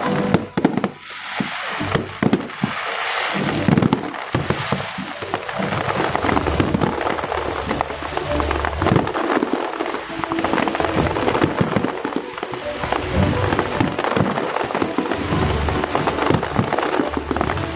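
Fireworks display: a dense, continuous barrage of bursts and crackling with repeated deep booms. Music plays underneath.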